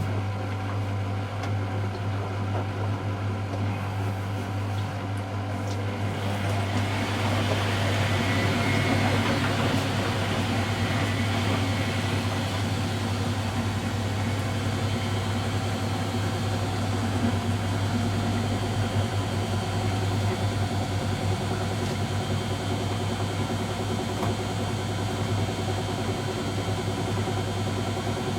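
Miele Novotronic W715 washing machine running on a Minimum iron / Delicates programme: a steady low motor hum with a noisier layer from the drum and water that grows louder about six seconds in and then holds steady.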